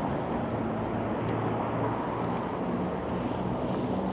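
Steady city street traffic noise, with a low engine hum from passing vehicles.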